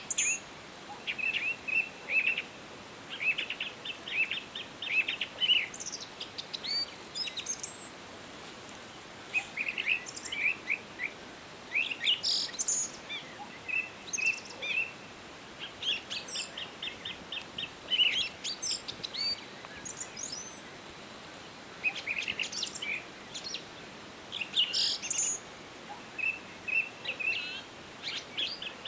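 Songbirds chirping and singing in short high phrases that come in bouts of a second or two with brief pauses between, over a faint steady hiss.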